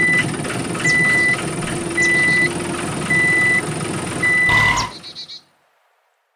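A vehicle's reversing alarm beeping once a second, five even beeps, over an engine running. Both cut off about five seconds in.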